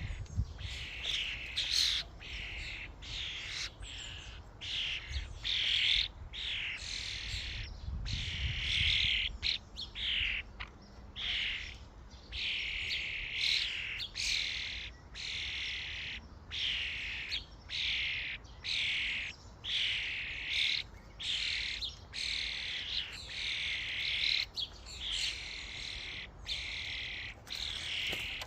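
Common starlings calling at a feeding station: a continuous run of short chirps and squawks, one after another without a break.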